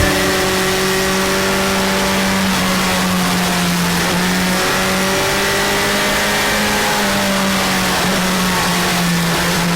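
Motorcycle engine running at fairly steady revs while riding, its pitch shifting slightly now and then, with wind and road noise.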